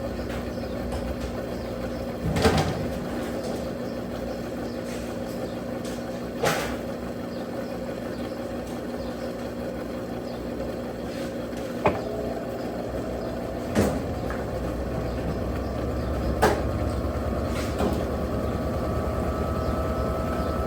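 Electrolux Turbo Capacidade Premium 15 kg top-load washing machine running: a steady motor hum broken by a short knock every few seconds. From about halfway through, a motor whine rises slowly in pitch.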